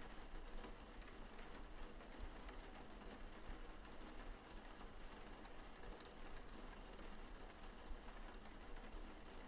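Steady rain: a faint even hiss with scattered patter of drops.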